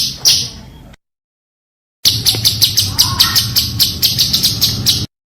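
Cage songbird singing a rapid 'tembakan' phrase of sharp, high repeated notes, about five a second. It is cut in two by a second of dead silence near the start, where clips are spliced.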